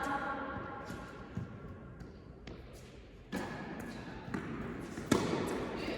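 Tennis ball bouncing on the court and being hit with rackets during play: a few separate sharp knocks, the loudest about five seconds in, with voices in the background.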